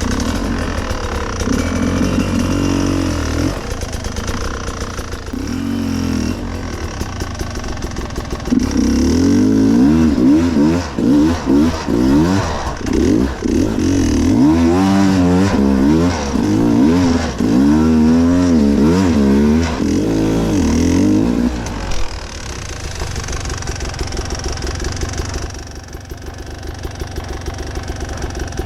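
Enduro dirt bike engine revving in quick repeated bursts, the pitch rising and falling again and again, loudest through the middle. For the last several seconds it drops to a lower, steadier running sound.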